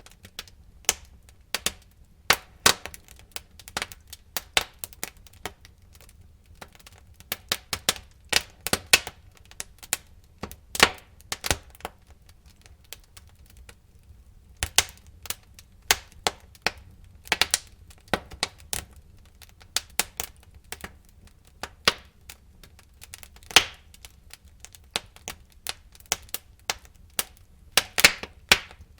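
Burning wood in a fireplace crackling and popping: irregular sharp snaps, several a second, over a low steady rumble of the fire.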